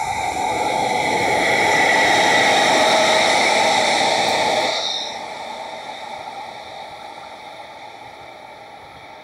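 A short train passing on the tracks, carrying the new DD200 diesel locomotive as a delivery consignment: a steady rushing of wheels on rail builds to a peak. It drops off sharply about five seconds in as the train goes by, then fades.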